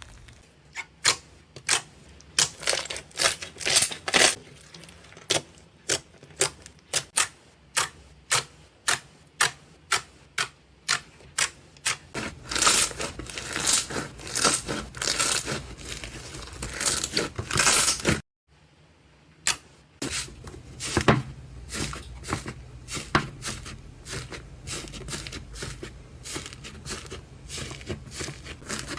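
Slime being pressed and squeezed by hand, giving a run of sharp crackling pops, at first about two a second and later denser. The sound breaks off briefly a little past the middle.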